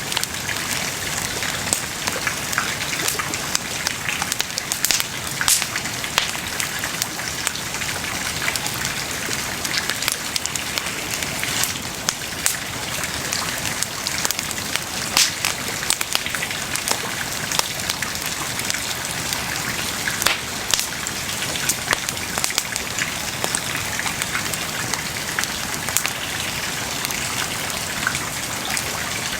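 Wood bonfire burning, a steady hiss of flames with frequent sharp crackles and pops scattered throughout.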